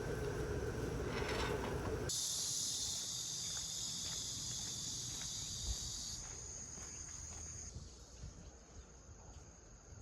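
Grass insects such as crickets chirring together in a dense, steady, high-pitched chorus. It comes in suddenly about two seconds in, after a low steady hum, and thins out around six and again near eight seconds.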